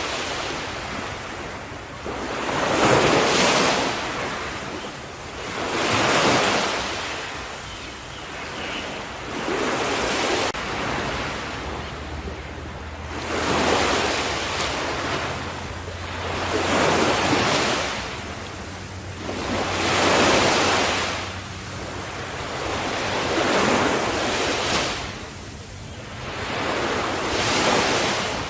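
Ocean waves breaking on a shore, one wash of surf swelling and fading about every three and a half seconds.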